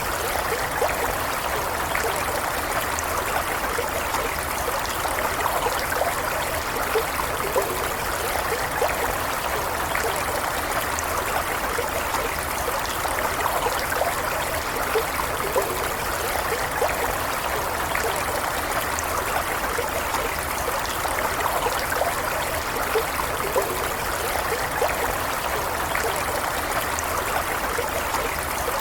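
Running water of a stream, flowing steadily with small trickling and splashing flickers.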